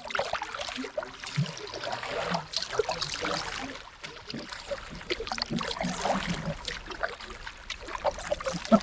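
Water dripping, trickling and splashing around a canoe paddle and hull as the pack boat is paddled: a busy patter of small splashes and gurgles.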